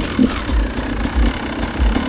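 Enduro motorcycle engine running at low revs while riding, with deep low thumps recurring about every half second.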